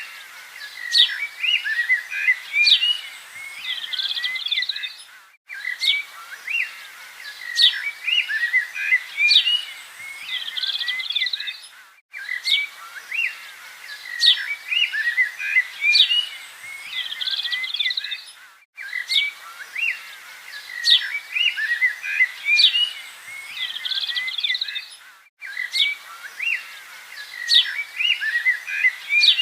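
Birds chirping and twittering: a short birdsong recording that loops about every six and a half seconds, with a brief break at each repeat.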